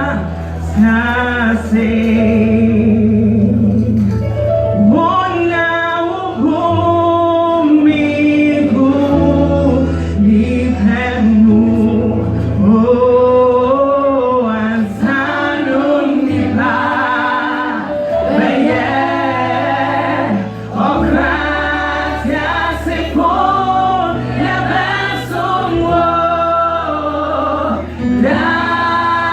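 Youth choir singing a Twi gospel song in several voices, over long held low bass notes that change every few seconds.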